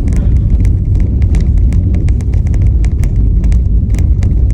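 Car driving, heard from inside the cabin: a loud, steady low road rumble with frequent short ticks and knocks.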